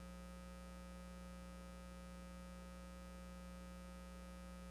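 Faint steady electrical hum, a mains-type buzz of steady tones, in a pause between speech.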